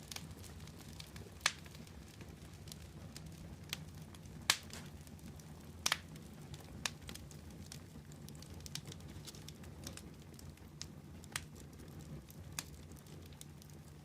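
Wood fire crackling: a steady low rumble under a stream of small ticks, with sharper pops every second or two, the loudest about four and a half seconds in.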